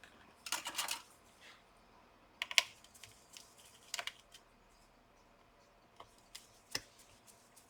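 Scattered light clicks, taps and brief scraping from small tools and cable connectors being worked inside an opened laptop, with the sharpest click about two and a half seconds in.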